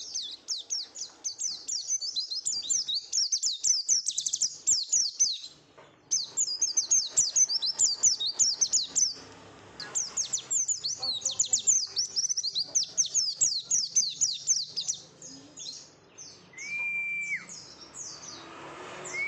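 Pleci (white-eye) singing in long, fast runs of high, quick down-slurred chirps, broken by short pauses. Near the end comes a single held whistle-like tone, about a second long, that drops off.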